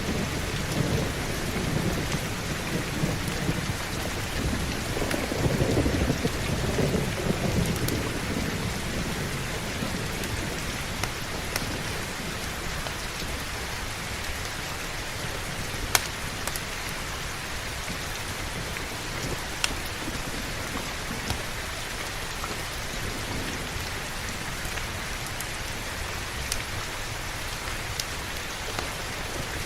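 Heavy, steady rain with a low roll of thunder through the first several seconds that dies away. Later, a few isolated sharp clicks stand out over the rain.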